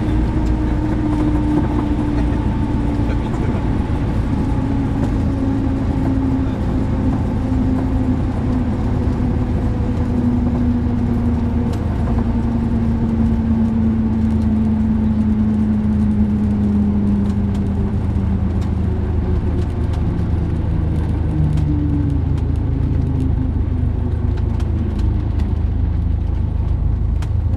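Cessna 172's piston engine and propeller running steadily, its pitch slowly falling as the revs come down.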